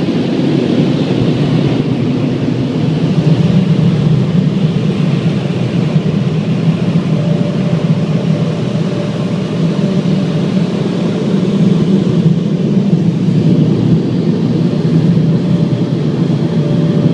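Automatic tunnel car wash machinery heard from inside the car's cabin: a loud, steady rumble, with a faint steady hum joining about seven seconds in.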